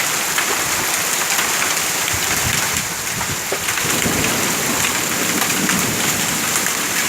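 Hail and heavy rain falling, a steady hiss dotted with many sharp ticks of hailstones striking surfaces, with a low rumble in the middle.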